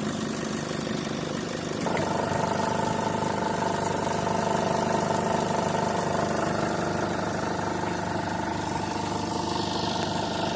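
Chevrolet Colorado engine idling. About two seconds in, a click and then a steady whine set in: the A/C compressor cutting in and running noisily, which the mechanic puts down to high-side pressure above 200, from too much refrigerant.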